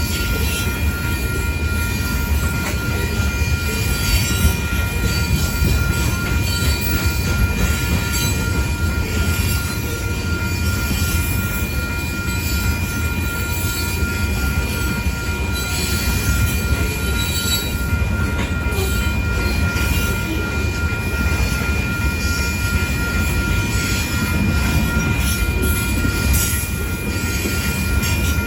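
Coal train's cars rolling past on the rails, a steady heavy rumble with a continuous high-pitched wheel squeal over it.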